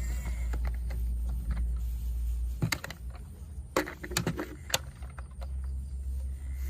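Scattered sharp clicks and knocks, loudest in a cluster around the middle, over a steady low rumble.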